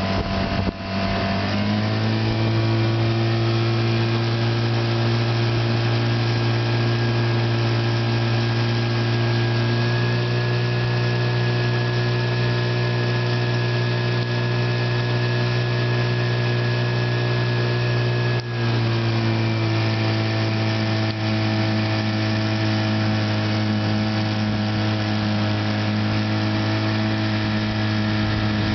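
1953 Johnson TN-28 5 hp two-stroke twin outboard motor running steadily. Its speed picks up about two seconds in and eases back slightly about two-thirds of the way through. It runs smoothly, freshly serviced with new coils, condensers, cleaned points and a new impeller.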